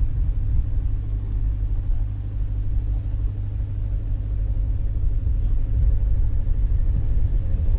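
A motor running steadily at an unchanging pitch, with a low rumble underneath.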